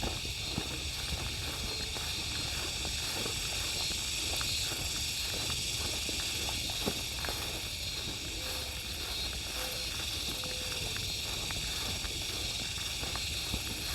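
Footsteps of a person walking along an outdoor trail, an irregular series of soft crunches, over a steady high-pitched hiss.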